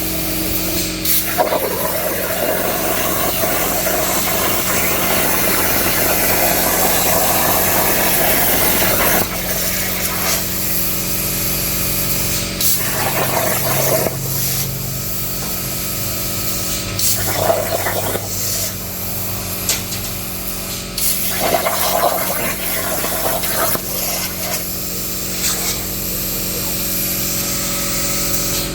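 Plasma cutter on a CNC table cutting steel: a steady hiss and buzz of the cutting arc and air over a constant machine hum, loudest in the first several seconds, then breaking off and restarting a few times.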